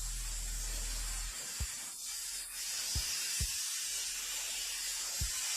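Steady hissing spray, strongest in the high range, with a few dull low thumps scattered through it.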